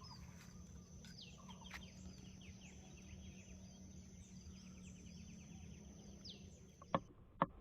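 Small birds chirping with quick falling calls over an insect's steady high buzz and a low hum. Near the end the buzz stops abruptly and two sharp clicks sound about half a second apart.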